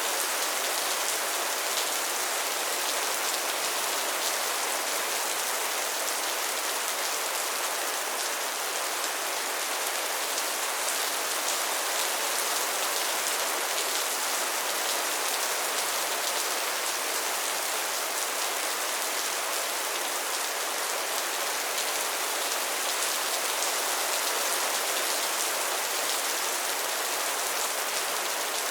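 Steady rain falling, an even hiss of many drops hitting a surface, with no thunder or change in intensity.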